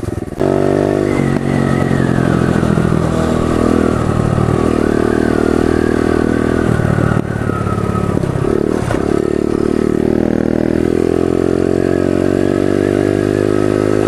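Pit bike's small single-cylinder engine running as it is ridden, its note rising and falling with the throttle. The engine drops off briefly just after the start and again about seven seconds in.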